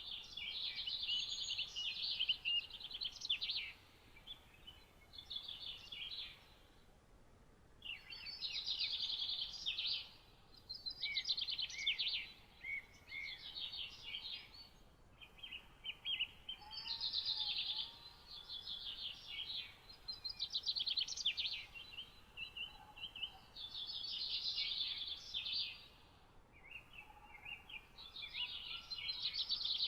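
A songbird singing a series of high, rapid trilled phrases, each one to three seconds long with short pauses between, over a faint steady background hiss. A few faint lower calls from another bird come in midway.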